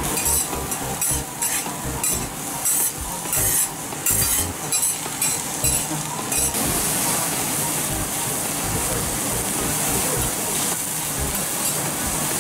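Hiroshima-style okonomiyaki frying on a hot griddle: a run of short, irregular scraping strokes for about the first half, then a steady sizzle.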